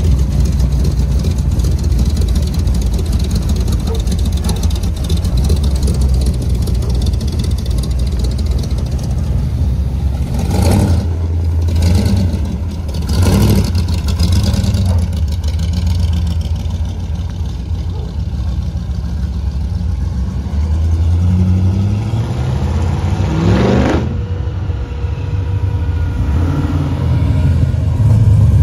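Car engine idling, blipped three times in quick succession about ten to fourteen seconds in, then revved up in one rising sweep that cuts off suddenly about 24 seconds in.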